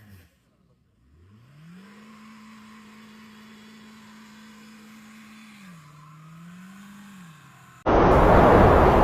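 A car revving with its tyres spinning, making a single whine that rises about a second in, holds steady, dips and rises again, then falls away. Near the end a sudden loud rushing noise cuts in.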